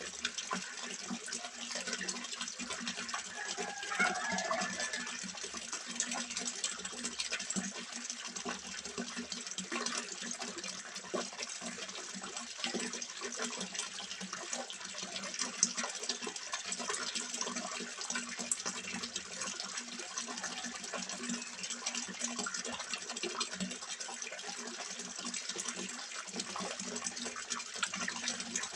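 Water steadily splashing and trickling into a small fish pond, with a steady low hum underneath.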